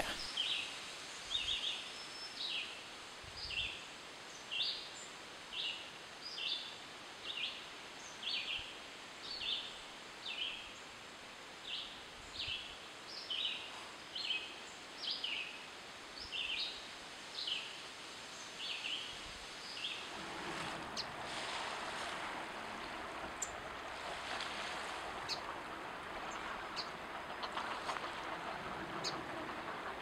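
A small bird calling over and over, one short high call about every second, for roughly twenty seconds. Then a soft, steady rushing noise takes over, with a few faint ticks.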